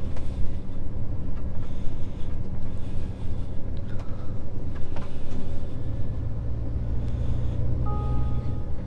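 Scania S500 truck engine running under the cab, a steady low rumble that gets louder about six seconds in as it pulls. Near the end a short two-tone electronic beep sounds.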